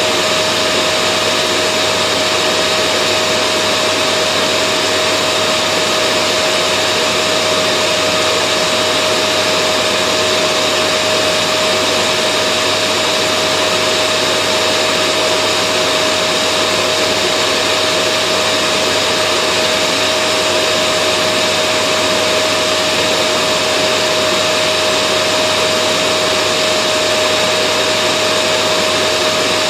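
Vacuum cleaner running continuously, a steady motor whine over an even rush of air, unchanging throughout.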